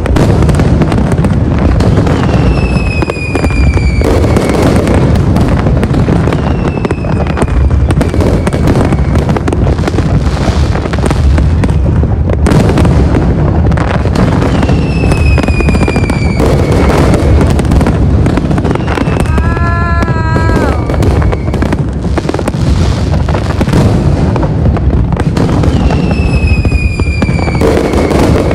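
Aerial fireworks display: a continuous, dense barrage of bangs and crackling bursts. High whistles that fall in pitch cut through it three times.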